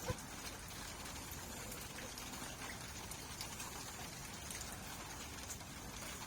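Steady rain with individual drops tapping at irregular moments, and one sharper drop just after the start.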